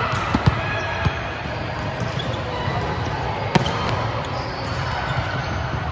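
Volleyballs being struck and bouncing in a large indoor hall: a handful of sharp smacks, the loudest about three and a half seconds in, over a steady background of distant players' voices and hall noise.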